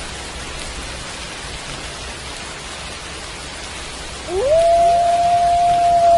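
Steady rain falling, and about four seconds in a wolf howl rises and holds a long level note, with a second wolf's howl sliding up to join it a moment later.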